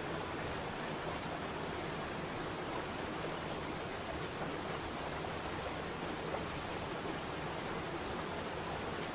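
Waterfall: falling water rushing with a steady, even hiss.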